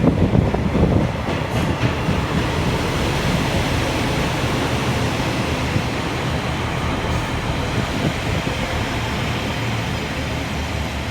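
Passenger train running past at close range: a steady rumble of wheels on rail with some clattering knocks in the first couple of seconds.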